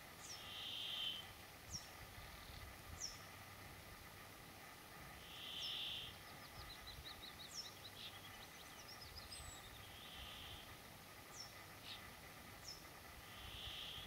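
Faint birdsong, which the uploader names a woodlark's. There are thin, short downslurred whistles scattered through, a buzzy phrase about every four to five seconds, and a run of quick repeated notes near the middle.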